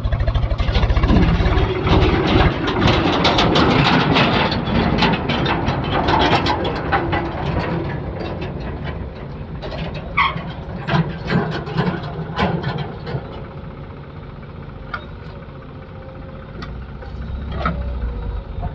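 Heavy diesel machinery running, with many sharp clanks and knocks over the engine. It is loudest in the first several seconds, then eases off.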